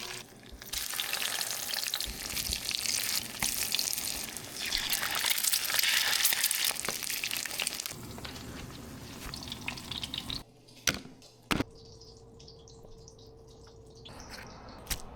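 Food frying in a pan, with a steady sizzle for about ten seconds that then dies away. Two sharp clicks follow, then a steady low hum for about two seconds.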